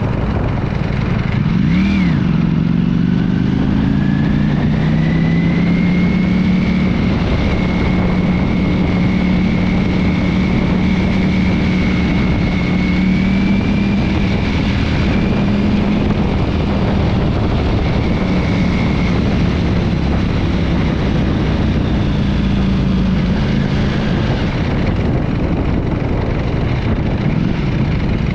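Ducati V4 motorcycle engine running at steady cruising revs, with a quick dip and rise in revs about two seconds in, over a constant rushing noise.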